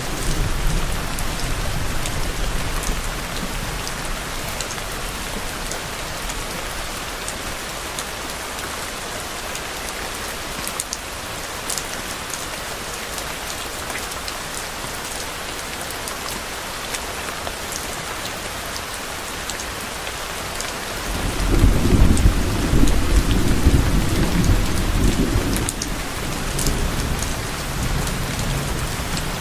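Steady rain falling, with rumbles of low, distant thunder: one fading at the start and a longer, louder rumble starting a little past two-thirds of the way through and dying away over several seconds.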